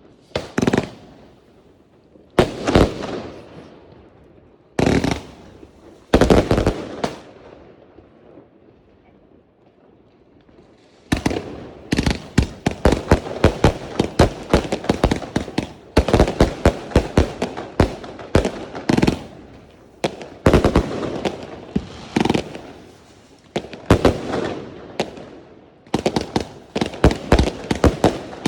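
Fireworks going off: a few separate loud bangs in the first seven seconds, then, after a lull, a rapid run of cracks and bangs, several a second, from about eleven seconds in.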